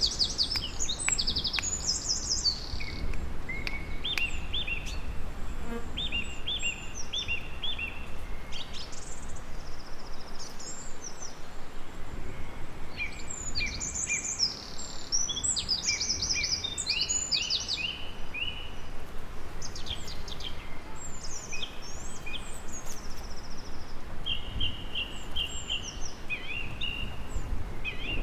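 Several songbirds singing, short phrases of rapidly repeated notes coming again and again, over a steady low rushing background noise.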